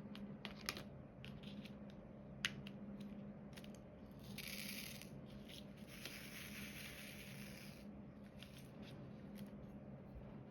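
Diamond painting work: scattered light clicks and taps as small resin drills are picked up and pressed onto the canvas, with two short stretches of rattling near the middle, like drills being shaken in a plastic tray.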